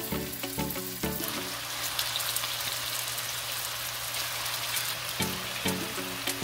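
Raw meatballs sizzling and crackling in hot oil in a frying pan as they are set in. Background music plays over it, dropping out from about one second to five seconds in, when the sizzle is heard on its own.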